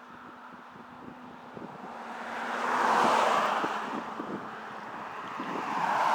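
Cars passing on the road, their tyre and engine noise swelling to a peak about three seconds in and fading, then a second car building up near the end, over steady wind on the microphone.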